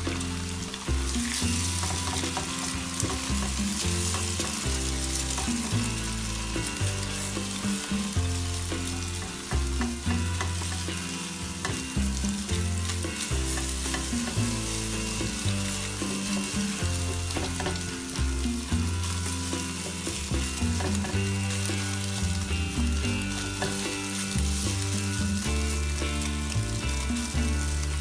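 Eggs and grated carrot sizzling in hot oil in a nonstick wok while a spatula stirs and scrambles them, scraping against the pan. The sizzle is steady throughout, with irregular scrapes from the stirring.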